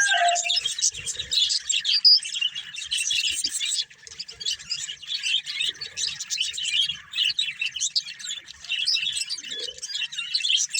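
Pet budgerigars chirping in a rapid, continuous stream of short high chirps, with a brief lull about four seconds in.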